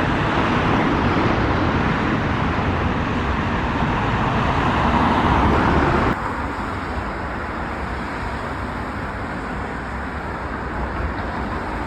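Steady city street traffic noise. It cuts off abruptly about six seconds in to a quieter stretch of street noise.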